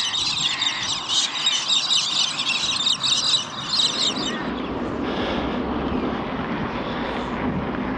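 A flock of birds chattering, many short chirps packed together, which stops abruptly about four seconds in, leaving a steady low rumble.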